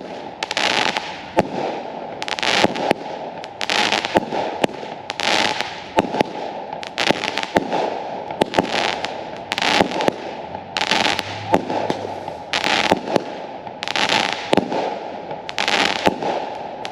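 Fireworks going off in a steady run of sharp pops, each followed by a short crackling hiss, about one a second.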